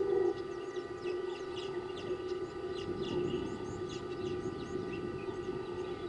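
Small birds chirping: a steady run of short, high chirps that drop in pitch, from several birds at once.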